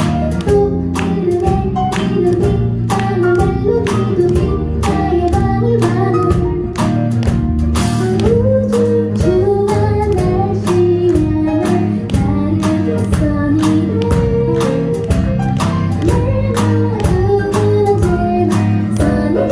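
Live music: a woman singing a melody over guitar, with a steady beat of evenly spaced strokes.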